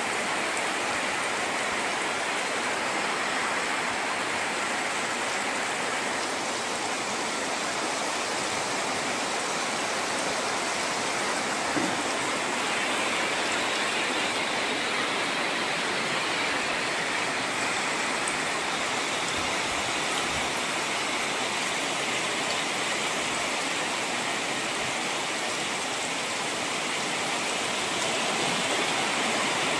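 Steady rain falling, an even hiss of water with no break and no thunder.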